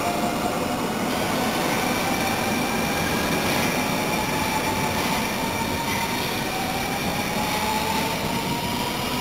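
Electric passenger train pulling out of a station and gathering speed past the platform: a steady rolling rumble with a motor whine that rises slowly in pitch as it accelerates.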